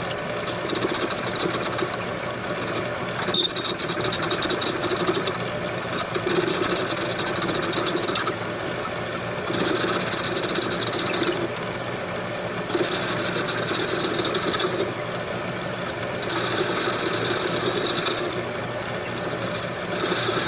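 Homemade steel lathe running with a steady motor hum while the cutting tool turns round stock. The cutting noise swells and fades in repeated passes of a second or two each, about every three seconds.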